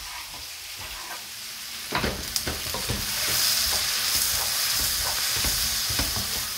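Sliced onion and peppers sizzling in butter in a frying pan, with a wooden spoon stirring and knocking against the pan. The sizzle grows louder about two seconds in, when the stirring starts.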